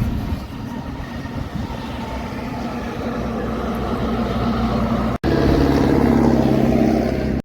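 Heavy trucks on the road: steady engine and tyre noise. About five seconds in the sound cuts abruptly to a louder, steady diesel engine drone.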